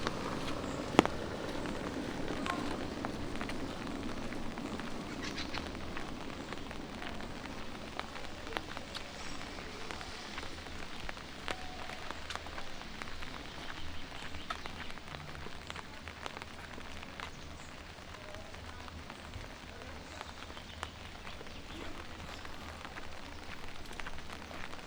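Light rain falling: a steady hiss dotted with many small drop ticks, with a sharp click about a second in.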